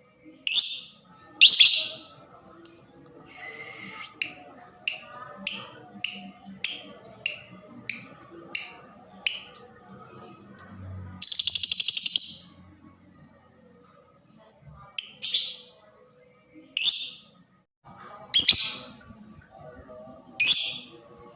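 Lovebird calling in sharp, high chirps: a quick run of about ten short chirps, then a rattling trill lasting about a second, then single loud chirps spaced a second or two apart.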